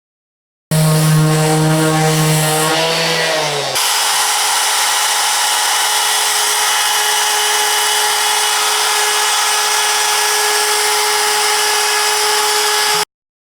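Electric woodworking power tool running: first a pitched motor hum that sags slightly in pitch. About three seconds in it changes abruptly to a steady higher whine with hiss, which cuts off suddenly near the end.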